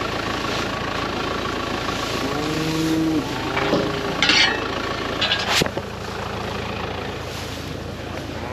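Tractor engine running steadily while a cow moos about two and a half seconds in, followed by a shorter call, a brief high squeal and a sharp click about five and a half seconds in, after which the engine note drops slightly.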